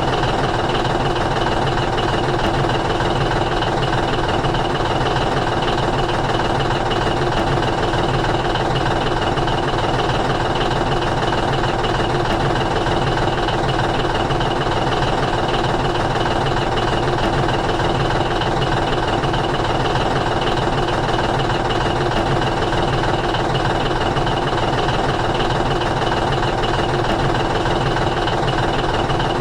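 A steady engine-like running drone that does not change in pitch or loudness.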